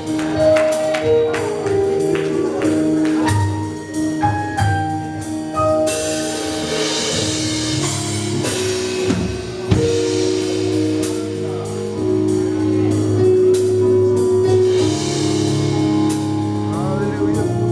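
Instrumental church praise music: sustained keyboard notes moving in steps over a drum kit, with frequent drum and cymbal strikes.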